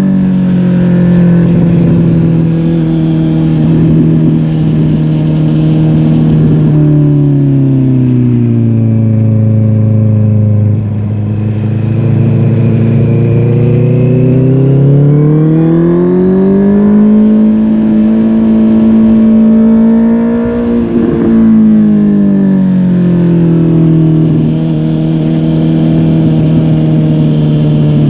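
Honda CB650R inline-four motorcycle engine through a MIVV GP PRO Carbon aftermarket exhaust, heard riding on the bike. The engine note drops and stays low as the bike slows, rises again as it accelerates about halfway through, then drops once more and holds steady near the end.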